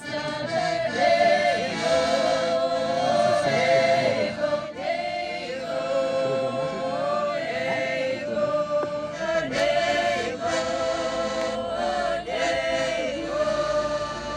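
A choir singing together in long held notes, phrase after phrase.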